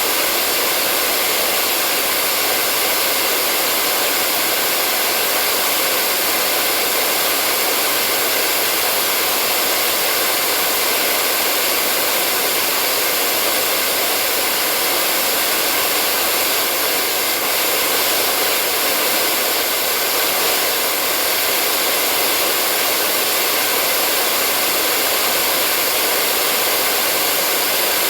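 Hair dryer running steadily at a constant speed: an even rush of blown air, mostly hiss with little bass, and a faint steady motor whine in it.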